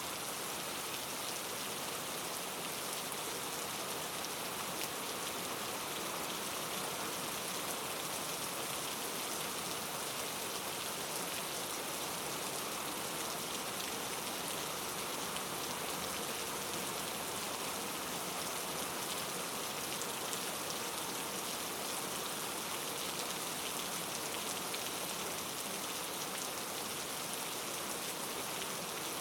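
Steady rain falling, a constant even hiss with fine patter of drops and no thunder.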